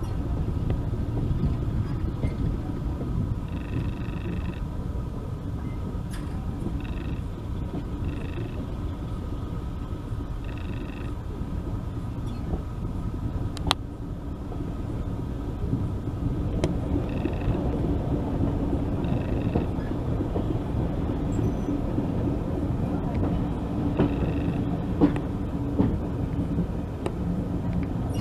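Heritage railway train running along the line: a steady low rumble, with short higher-pitched squeals recurring every few seconds and a single sharp click about halfway through.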